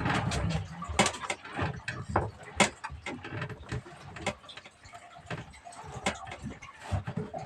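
Irregular knocks and clicks, several a second at first and sparser later, over a low rumble: handling noises on a fishing boat.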